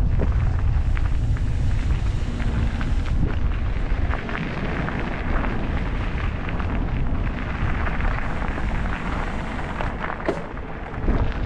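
Wind buffeting the microphone on a moving e-bike, a deep rumble over tyre and road noise, with scattered small rattling clicks. The rumble eases about four seconds in.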